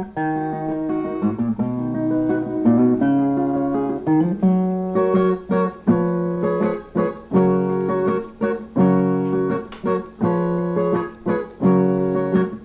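Viola, the Brazilian steel-string guitar, playing an instrumental passage: a plucked melody line at first, then from about four seconds in, strummed chords in a regular rhythm.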